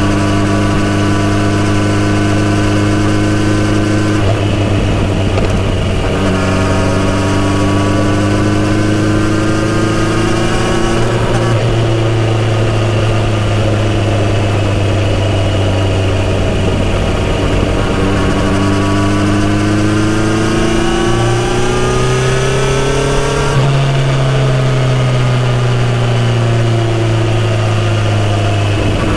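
Kawasaki Z900RS inline-four engine running through its full-system exhaust while riding. The pitch holds steady, then rises slowly under throttle twice with a short break between, and falls off as the bike slows near the end.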